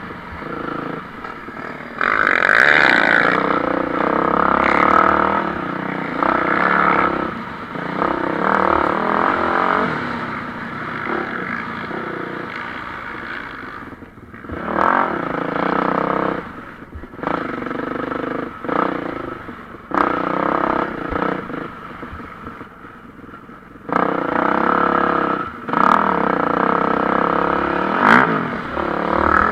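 Motocross motorcycles racing on a dirt track, engines revving up and dropping off again and again as riders open and shut the throttle through the course.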